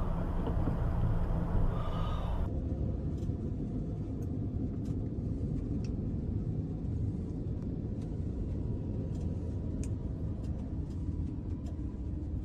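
Low, steady rumble of a car in motion, engine and road noise, with a few faint ticks. About two and a half seconds in, the higher hiss above it cuts off abruptly while the rumble carries on.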